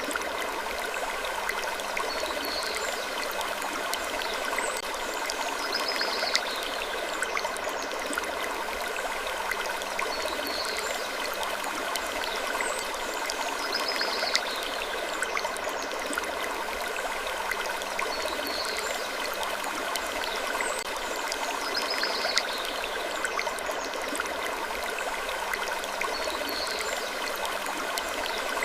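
Steady rushing, water-like ambience with slow wooden creaks that come back every few seconds in a repeating loop.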